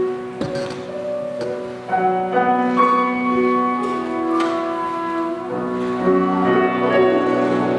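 Chinese instrumental music with long held melody notes over plucked and struck accompaniment, in the ensemble of bamboo flute, guzheng and piano. New notes enter about once a second.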